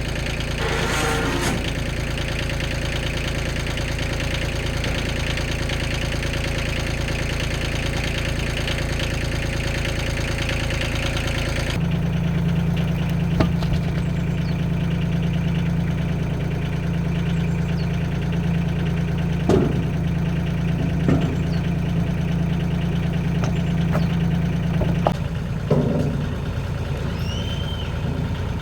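An engine idling steadily. About twelve seconds in the hum changes abruptly to a deeper, steadier tone, and a few short knocks sound over it.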